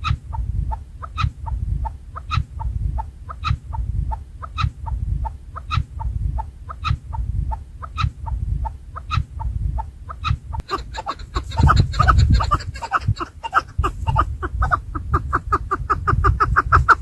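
Chukar partridge calling: a series of short clucking chuck notes, about two a second at first, then speeding up and growing louder about ten seconds in, with a low rumble underneath.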